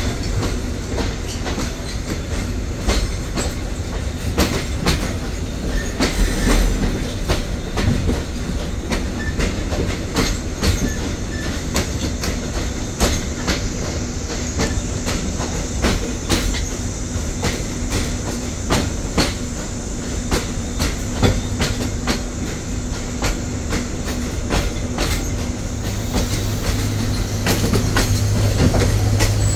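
Vietnam Railways SE5 passenger train rolling on the rails, its wheels clicking irregularly over rail joints. A faint high wheel squeal comes in around the middle, and a low rumble swells near the end.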